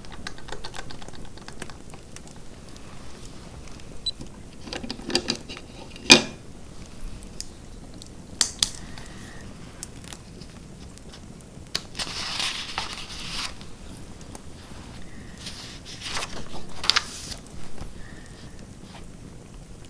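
Fireplace crackling: scattered clicks and pops over a low steady background, with one sharp pop about six seconds in and a couple of longer hissing stretches.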